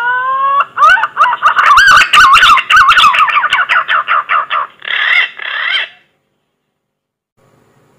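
Punai (green pigeon) lure call: a rising whistle, then a rapid run of warbling whistled notes with some clicking, and two harsher notes before it stops about six seconds in. The rising whistle starts again near the end as the call repeats.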